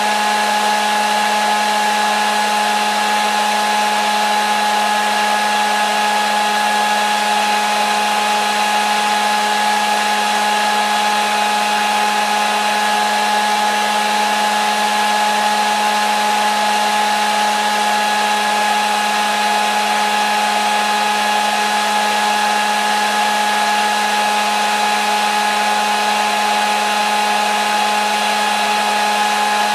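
Hair dryer running steadily, a constant airy hiss with a fixed motor whine, unchanging throughout.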